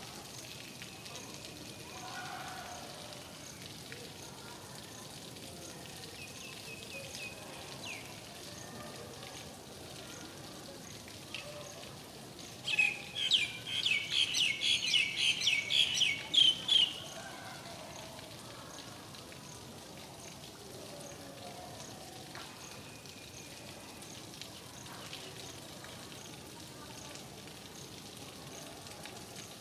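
Steady rain falling, with a bird calling loudly in a fast run of about a dozen sharp, high notes for about four seconds near the middle, and faint high chirps at other moments.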